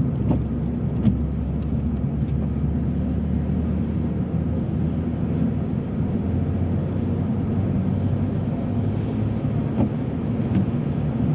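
Steady low rumble of a car driving, its engine and tyres heard from inside the cabin, with a few faint clicks.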